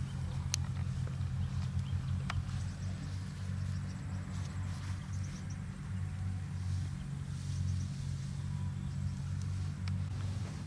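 An engine running steadily with a low, even hum, and a few faint clicks over it.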